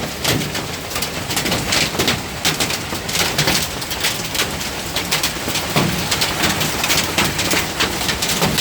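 Dime-sized hail pelting parked cars: a dense, irregular clatter of many small hits on metal and glass over the roar of the storm.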